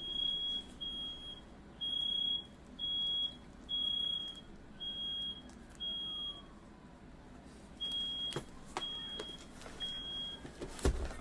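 Smoke alarm beeping in a single high tone, roughly once a second, set off by firework smoke in the house. A few knocks near the end.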